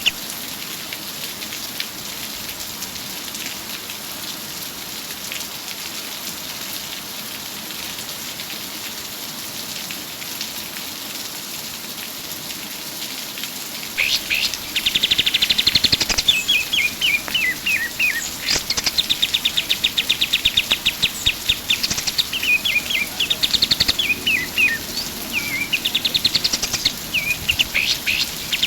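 Kapas tembak (white-shouldered triller) singing: after a stretch of faint hiss, from about halfway it repeatedly bursts into rapid, high, machine-gun-like trills mixed with short falling chattered notes.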